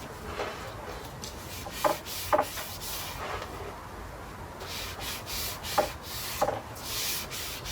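Brush strokes spreading oil over larch wood planks: several swishing, rubbing strokes, with a few short sharp taps, the loudest sounds, in between.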